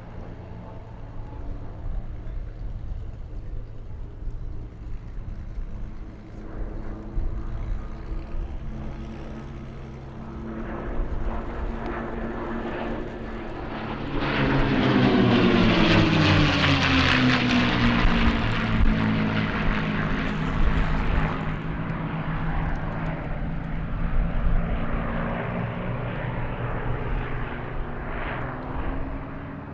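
Piston aero engines of a three-ship formation of P-51 Mustangs (Packard Merlin V12s) droning through an aerobatic display. About halfway through the sound swells sharply as the aircraft pass close, and its pitch falls as they go by, then it slowly fades.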